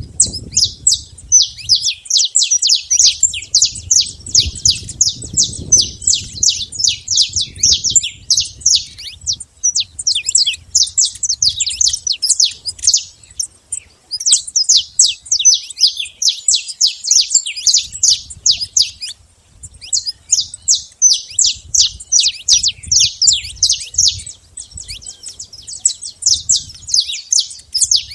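Saffron finch (canário-da-terra) singing: a long, fast string of sharp, down-slurred chirps, broken by a few brief pauses.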